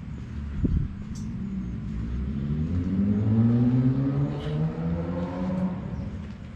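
A road vehicle's engine accelerating, its pitch rising steadily for a few seconds and then easing off near the end. There is a short knock about half a second in.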